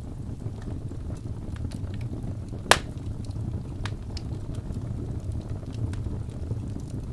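Fire crackling: a steady low rumble with scattered small crackles and one loud pop a little under three seconds in.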